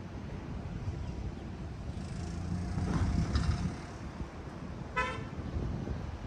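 Road traffic rumbling, with a vehicle passing close and louder around the middle, then one short car horn beep about five seconds in.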